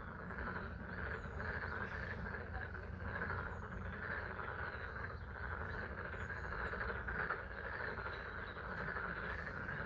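A chorus of many frogs calling continuously over the steady patter of light spring rain.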